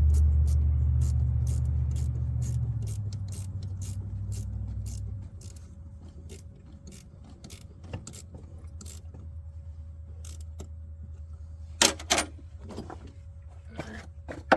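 Jetta TDI diesel engine rumbling low, then fading and dying away about five seconds in, after a fuel filter change in the cold. A steady light ticking, two to three times a second, runs throughout, and there are a couple of sharp knocks near the end.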